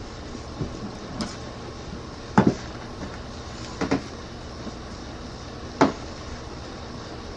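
Cardboard being handled and marked while a wheel is traced on it: about four short knocks and scrapes over a steady low background hum.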